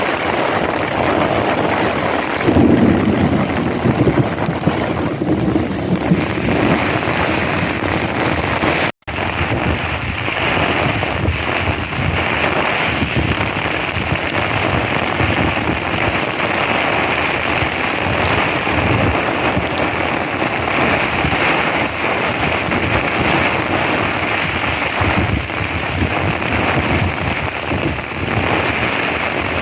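Heavy monsoon downpour, a dense steady hiss of rain falling hard on surfaces. A low rumble of thunder comes in about two and a half seconds in and lasts a few seconds. The sound cuts out for an instant about nine seconds in.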